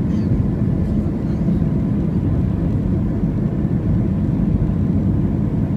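Steady cabin noise inside an Airbus A320 in flight: an even rumble of engines and airflow, with no distinct events.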